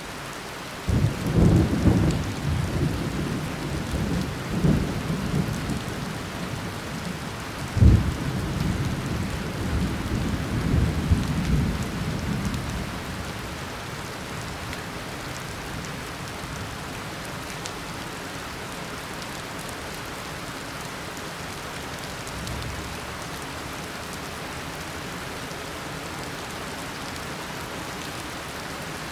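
Steady heavy tropical rain with rolling thunder: a rumble begins about a second in and rolls on for some ten seconds, with a sharp loud crack about eight seconds in, then the thunder dies away and only the steady rain remains.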